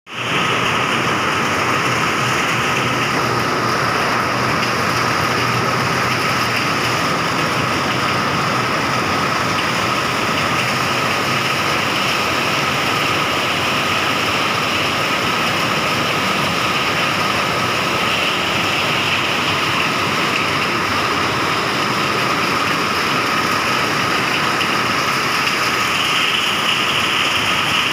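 Heavy rain falling, a dense steady hiss with no let-up.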